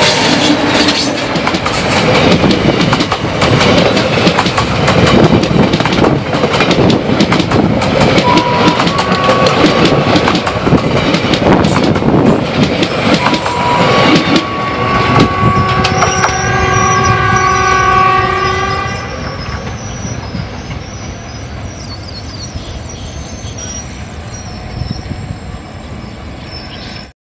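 An Indian Railways passenger train passes close by at speed, its wheels clattering loudly over the rails. A horn sounds briefly twice, then gives a long blast of several tones as the clatter dies away. The train fades into the distance, and the sound cuts off abruptly near the end.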